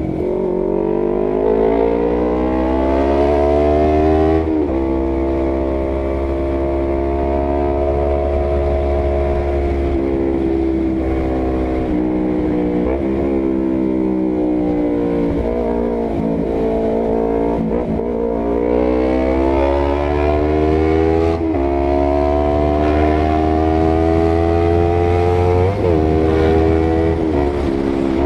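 Honda CBR250RR's parallel-twin engine through an aftermarket R9 GP series full-system exhaust, loud and raspy on the road. It pulls up through the revs, drops in pitch at a gear change about four seconds in, cruises with small rises and falls, climbs again and shifts again about twenty-one seconds in.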